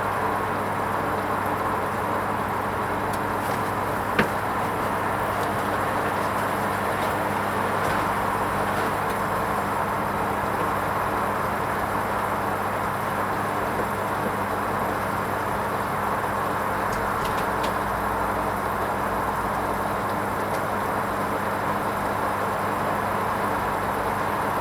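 Hoover Vision HVP16 washing machine running steadily on its wool rinse programme: a constant hum and whoosh, with one sharp click about four seconds in.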